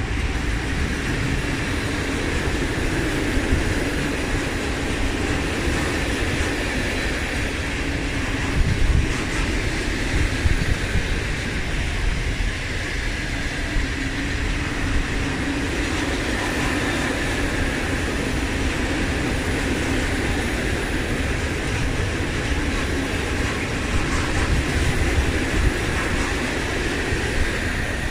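A train rolling through the station, its wheels running steadily on the rails, with a couple of sharper knocks partway through.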